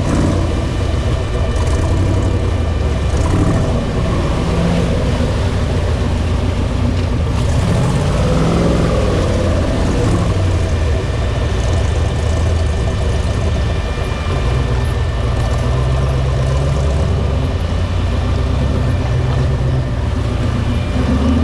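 Off-road 4x4 engine running under load on a trail, revs rising and falling a few times.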